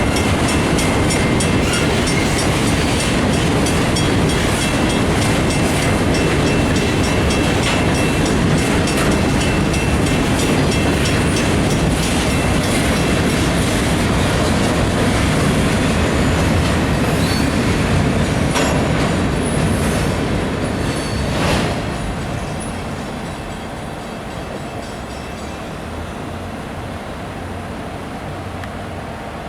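Freight cars of a loaded stone train rolling past close by: a steady rumble with wheels clicking rhythmically over rail joints and a faint high squeal. A sharp knock comes about 21 seconds in, and then the sound drops off and fades as the train moves away.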